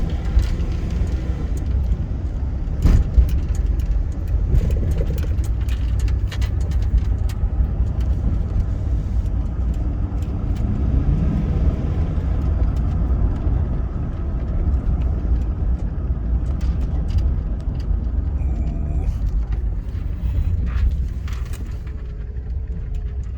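Chevy Silverado pickup heard from inside the cab while driving: a steady low rumble of engine and road noise, with a few sharp clicks early on and the engine note rising briefly about ten seconds in.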